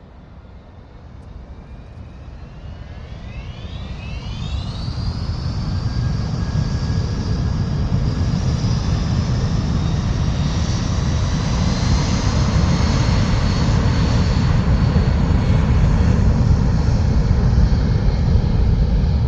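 Aircraft jet engines spooling up to takeoff power: a whine that climbs in pitch over a few seconds, then holds steady, while a deep rumble keeps building.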